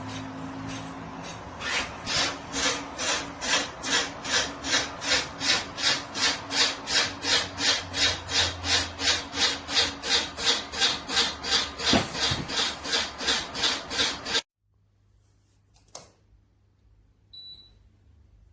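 LED ceiling fan making a rhythmic scraping noise, about three strokes a second, that cuts off suddenly near the end.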